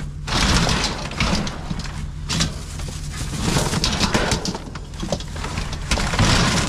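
Gusty wind rushing and buffeting the microphone in rising and falling waves, with a low rumble and a few short knocks.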